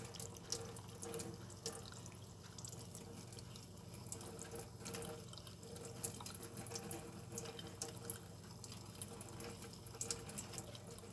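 Faucet water running and splashing in a sink, with scattered drips, as a small bird is rinsed under it.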